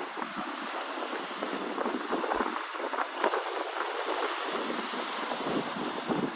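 Rough sea surging and splashing against rock: a steady rush of water full of small, quick splashes, with no single big crash standing out.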